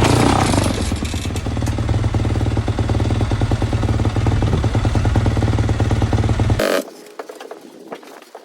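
Dirt bike engine running steadily at low speed in first gear while the bike is ridden slowly up a loading ramp. The engine sound cuts off suddenly about seven seconds in, leaving faint knocks and wind.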